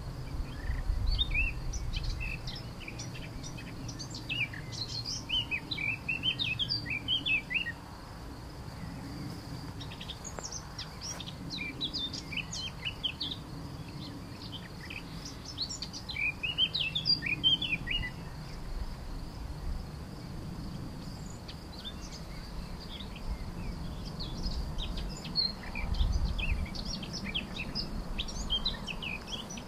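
Small birds chirping and singing in several bouts of quick high notes, over a steady thin high-pitched hum.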